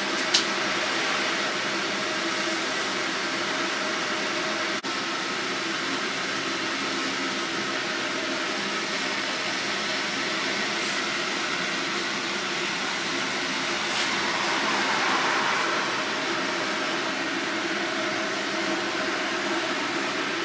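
Steady hum inside a Manyosen tram standing at a stop, its onboard equipment running while it waits to depart. A short click comes right at the start and the hum swells briefly about two-thirds of the way through.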